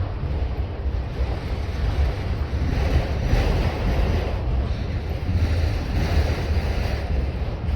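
Train rolling past: a steady rumble of wheels on rail, with wind buffeting the microphone.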